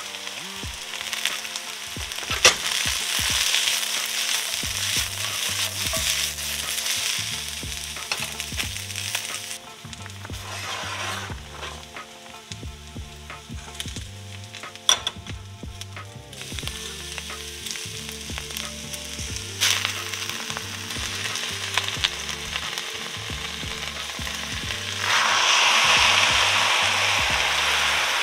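Cabbage and carrot strips sizzling and frying in a hot wok as they are stirred. The sizzle eases off for several seconds in the middle, then comes back and is loudest near the end.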